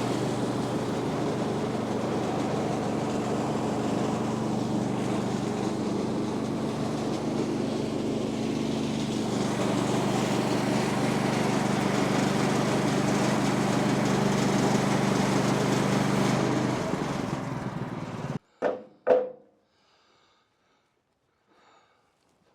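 Woodland Mills HM126 portable sawmill's gas engine running steadily, then dying away about three quarters of the way through. Shortly after it stops, there are two sharp knocks, and then it goes nearly quiet.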